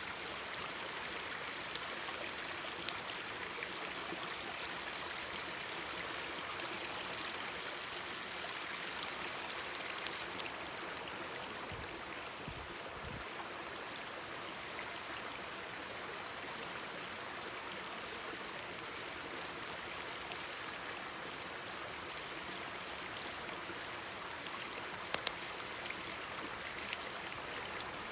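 Mountain stream babbling steadily over rocks, with a few sharp pops and crackles from a wood campfire scattered through it.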